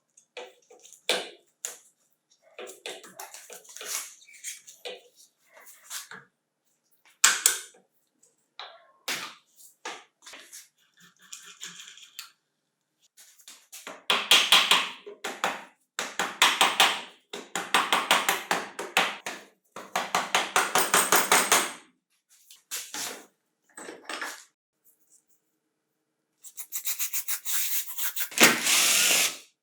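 Handling clicks and knocks of workshop parts, then several bursts of rapid back-and-forth rubbing or scrubbing. Near the end a steadier power-tool sound starts and runs on.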